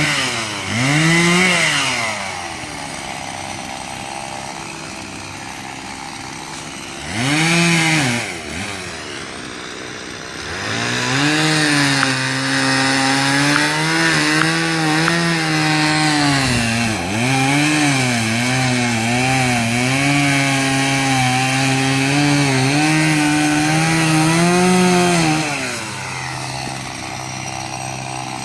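Chainsaw engine revving up in short blips and falling back to idle, then held at high revs for about fifteen seconds with its pitch dipping and wavering under load as it cuts wood, before dropping back to idle near the end.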